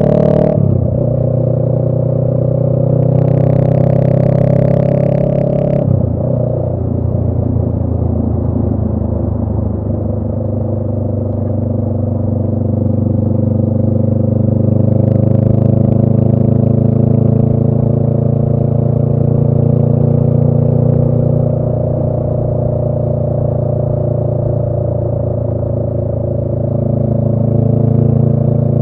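Honda Rebel 500 parallel-twin engine with a Radiant Cycles Shorty GP aftermarket exhaust, running under way. Its note drops sharply about half a second in and again about six seconds in, then holds fairly steady with a slowly shifting pitch and rises near the end. A brief hiss rides over it a few seconds in.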